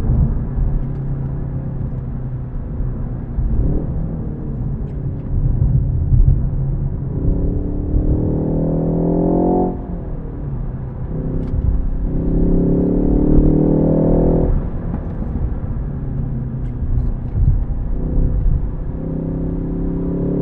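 Ford Focus ST's engine accelerating hard through the revs: the note climbs steadily in pitch for two to three seconds, then falls away sharply as the throttle closes, twice, with a third pull starting near the end. Between pulls a lower steady engine note and road rumble.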